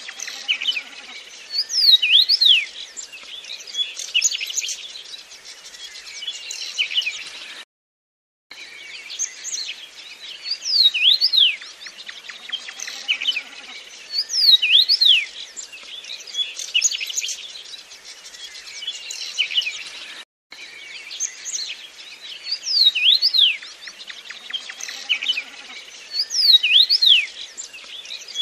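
Birds calling and twittering, with many quick, high, falling whistled notes. The same stretch of calls repeats about every twelve seconds, broken by short silent gaps: a looped bird recording.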